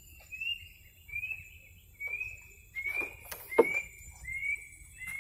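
A bird repeating a short, high single-note call over and over, about one call every three-quarters of a second. A few sharp knocks come about three seconds in.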